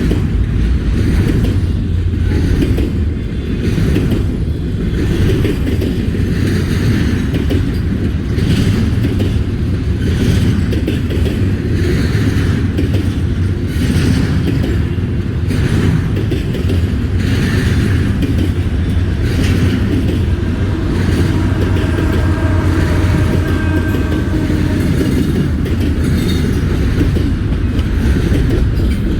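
Double-stack container freight train rolling past at speed: a steady heavy rumble, with wheels clicking over rail joints.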